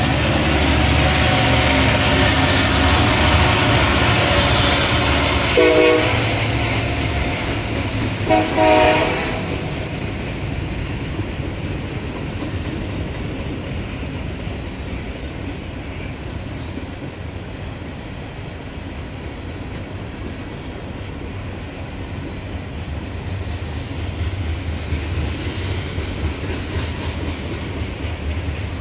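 Norfolk Southern diesel freight locomotive passing close by, its engine loud for the first few seconds, with two short horn blasts about six and about eight to nine seconds in. Then a string of covered hopper cars rolls past with a steady rumble of wheels and a clickety-clack over the rail joints.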